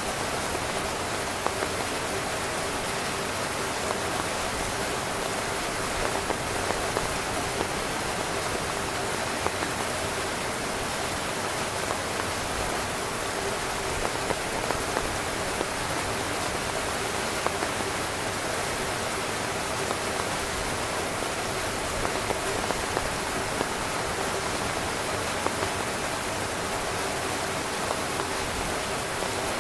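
Heavy rain drumming steadily on a tent's fabric, a dense hiss of countless drops with heavier drops ticking out above it every so often.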